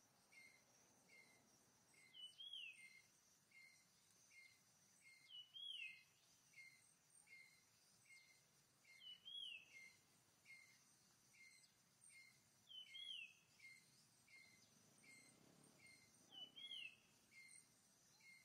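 Faint bird calling over and over: a short rising-and-falling whistle about every three and a half seconds, with quick short chirps about twice a second in between.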